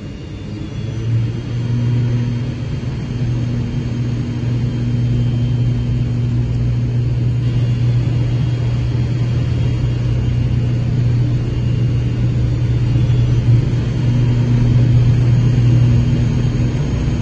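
Car engine running steadily, a low drone that slowly grows louder.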